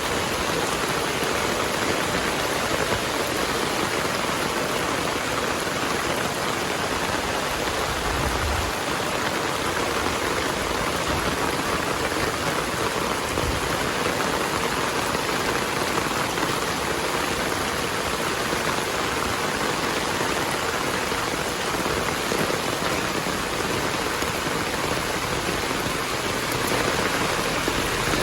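Heavy rain falling steadily, a dense, even hiss of downpour with no let-up.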